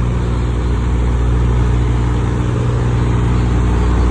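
Heavy diesel engine idling steadily, a deep, even hum.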